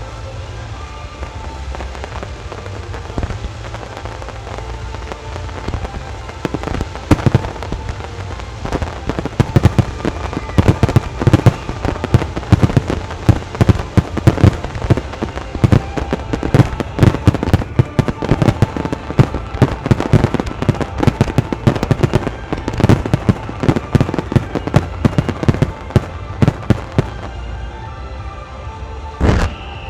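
Aerial fireworks bursting in a fast barrage, many sharp bangs close together, starting about seven seconds in and keeping on to near the end, with music playing underneath.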